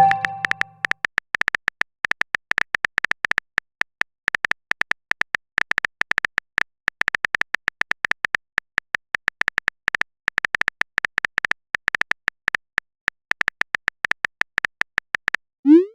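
Rapid, irregular typing clicks of a keyboard sound effect, as a message is typed out. A pitched message chime fades out just after the start, and a short rising blip near the end marks a message being sent.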